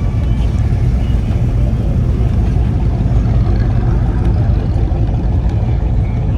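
A motor vehicle engine running steadily, a loud low rumble.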